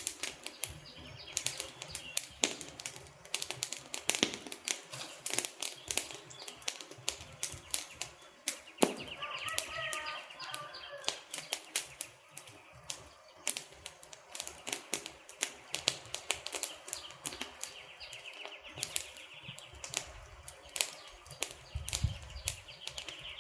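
Wood fire burning, with dense irregular crackles, pops and snaps from the logs.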